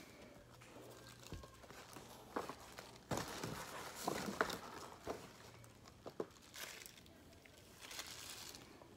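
Packing material crinkling and rustling as it is pulled from around a doll in its box, with small handling clicks. It is busiest about three to four and a half seconds in.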